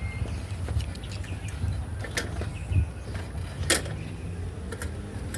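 A steady low rumble, like wind or riding noise on the microphone, with two sharp clicks about two and three and a half seconds in.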